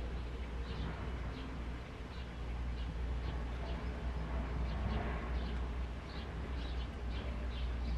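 Small birds chirping in a run of short, high chirps over a steady low rumble.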